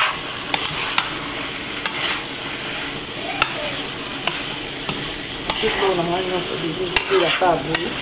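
Small fish and vegetables sizzling in a stainless steel skillet while a wooden spoon stirs them, with scattered clicks of the spoon against the pan.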